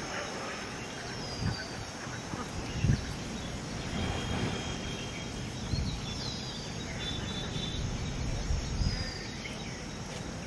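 Outdoor ambience of a bird giving short, high, falling chirps every second or two over a steady low background rumble, with a single soft knock about three seconds in.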